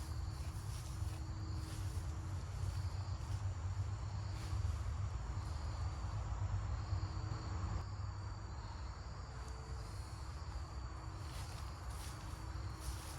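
Insects in the forest chirping in a steady, high-pitched drone over a low rumble.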